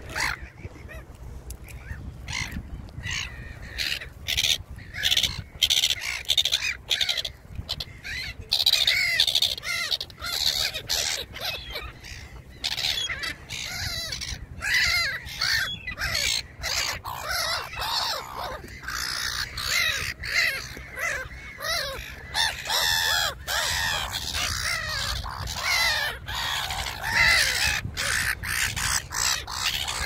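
Wild birds calling, many short calls overlapping almost constantly, over a low steady rumble.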